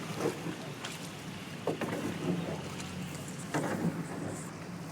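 Small boat's engine running steadily on floodwater, with wind on the microphone. There are a few short sharp sounds, about a second, two seconds and three and a half seconds in.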